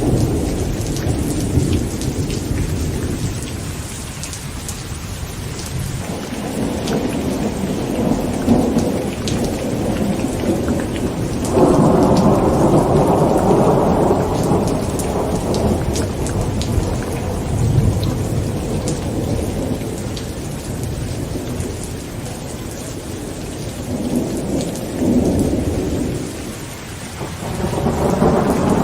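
Heavy rain falling on a tent with continuous rolling thunder. A loud rumble sets in suddenly about twelve seconds in and slowly dies away, and another swells up near the end.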